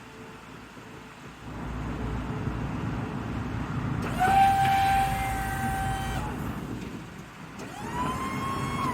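Western MVP V-plow's electric hydraulic pump whining twice over the 5.4L V8 idling: a steady whine for about two seconds, then a second one that climbs in pitch and falls away near the end as the pump stops.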